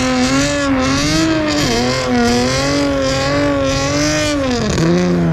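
Car engine revved up and held at high rpm, its pitch wavering slightly and dipping briefly about a second and a half in and again near the end, over a steady high hiss.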